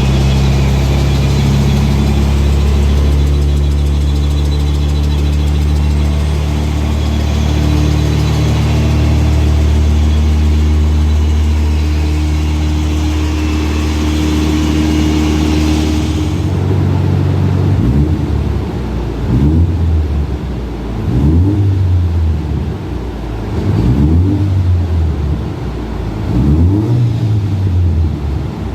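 Nissan 280ZX's turbocharged FJ20ET four-cylinder engine running at a steady speed, then from about two-thirds through revved again and again, a rise in pitch roughly every second and a half.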